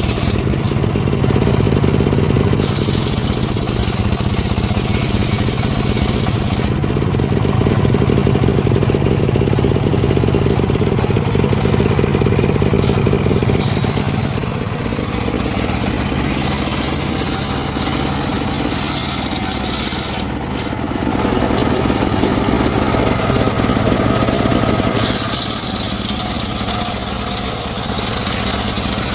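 Engine of a wood-cutting saw running steadily, with stretches of the blade cutting through timber.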